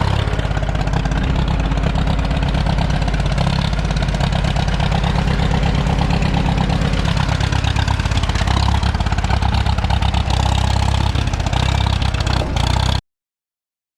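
An engine idling steadily with an even, low firing pulse, cut off abruptly about thirteen seconds in.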